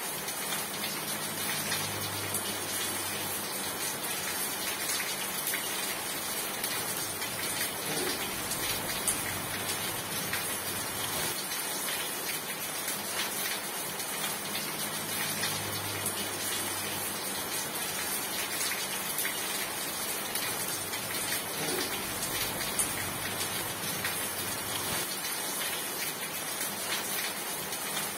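Steady rain falling, a dense even patter of drops hitting a surface. A faint low hum comes and goes two or three times under it.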